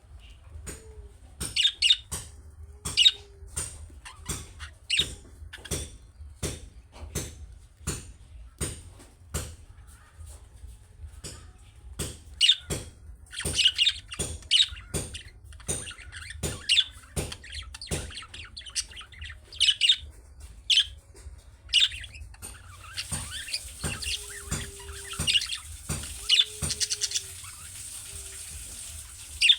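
Budgerigars chirping and squawking: a fast run of short, sharp calls, with a steady hiss joining in over the last several seconds.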